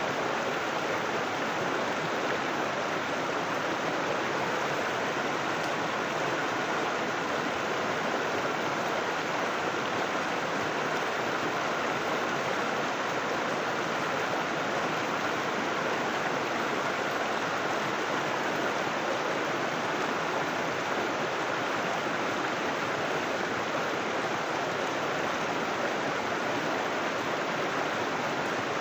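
River water flowing and splashing over rocks: a steady, even rush of water.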